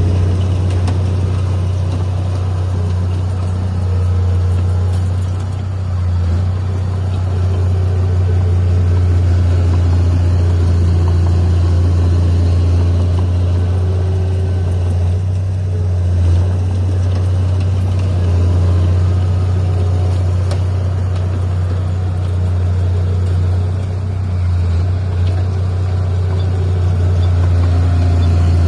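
Heavy earthmoving machine's diesel engine running steadily with a deep, constant drone that eases briefly twice.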